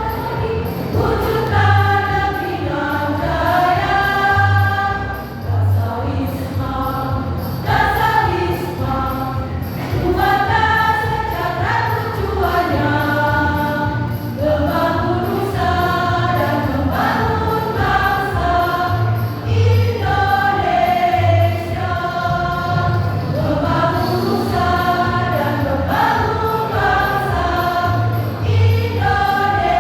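A choir singing a song with accompaniment that keeps a steady low beat.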